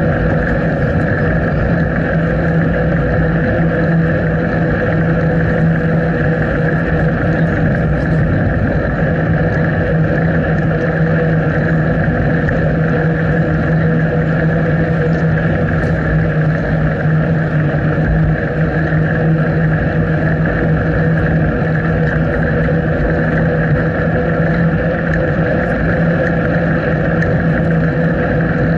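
Steady wind and riding noise on an action camera's microphone during a bicycle ride: a loud, unbroken rumble and hiss with a constant hum in it.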